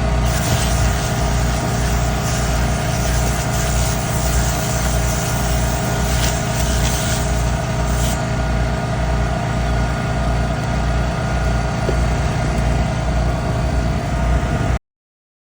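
A motor running steadily with a low, even pulsing and a steady hum, cutting off suddenly near the end.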